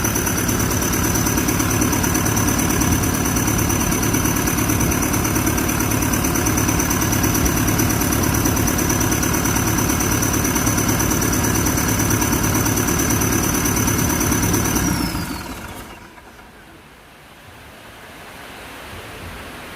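Hino J05E diesel engine of a Kobelco SK200-8 excavator running steadily after its top overhaul, with a high steady whine over the engine note. About 15 seconds in it is shut off: the whine falls away and the engine dies out, leaving only a faint hiss.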